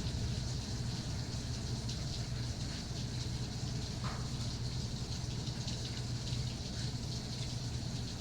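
Steady rain, many fine drops ticking, over a constant low rumble.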